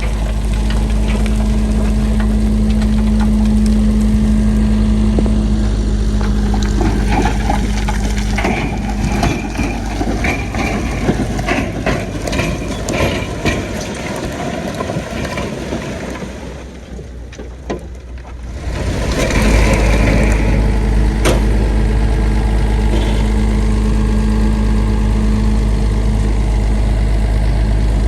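Heavy diesel earthmoving machinery running, with a steady engine hum. In the middle there are scattered metallic clanks and knocks. The engine note fades away briefly, then comes back louder and steady for the rest.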